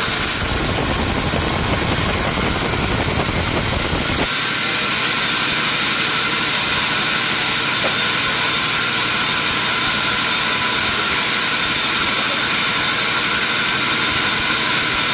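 Sawmill machinery running steadily with a hissing noise and a faint whine. A deep rumble underneath cuts off about four seconds in, while the rest keeps running.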